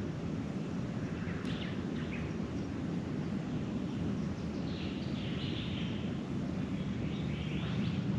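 Birds chirping in short calls, a few about a second and a half in and more from about five seconds in, over a steady low background rumble.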